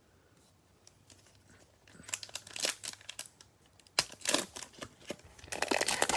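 Plastic cello wrapper of a pack of trading cards being torn open and crinkled, starting about two seconds in, with a sharp snap about four seconds in.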